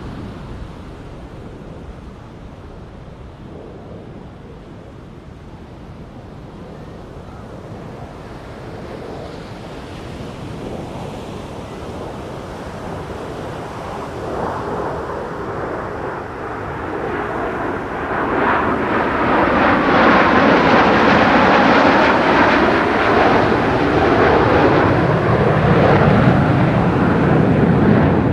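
Jet engine roar building as a jet aircraft approaches, growing steadily louder and reaching full strength about two-thirds of the way through, with a slowly sweeping, phasing tone in the roar.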